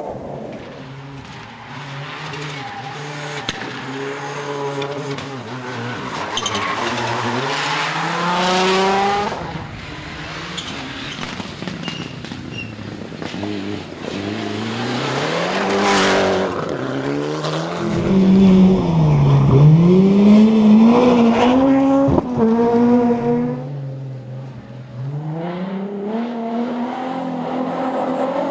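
Rally car engines revving hard, the pitch climbing and dropping again and again through gear changes and lifts, with tyre noise. The loudest run of revs comes about two-thirds of the way through.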